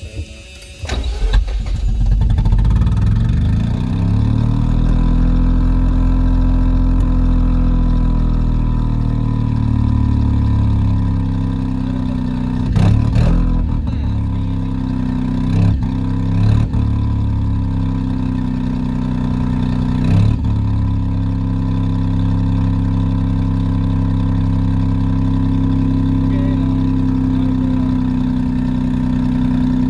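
Mazda RX-7 FC's two-rotor Wankel rotary engine starting about a second in and then running, with several short throttle blips in the middle and a steady idle either side.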